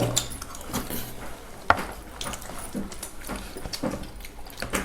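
Scattered light clinks and taps of spoons and dishes during a meal, with one sharper clink about two seconds in.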